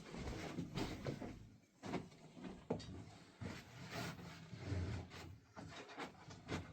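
Irregular knocks, scrapes and rubbing of objects being handled and moved about.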